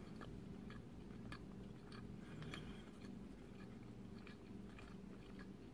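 Faint, soft chewing of a sticky rice bar with the mouth closed: scattered small wet clicks over a steady low room hum.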